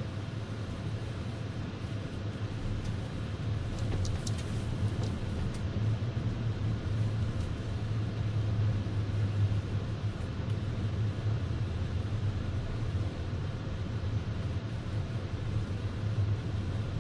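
Steady low drone of a car's engine and tyres heard from inside the cabin while driving on a snow-covered road.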